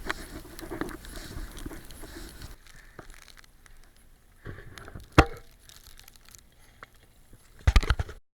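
Rustling handling noise on a camera sealed in a waterproof case, then a sharp knock about five seconds in and a quick run of loud knocks near the end, after which the sound cuts off.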